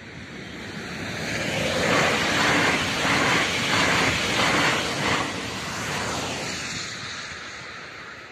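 An electric passenger train passes across a level crossing at speed. Its noise swells, peaks over a few seconds with a rhythmic clatter of wheels over the rails, then fades as it goes by.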